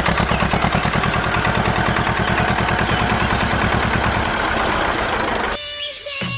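A small motor running steadily with a rapid even pulse, about ten a second, that stops about five and a half seconds in.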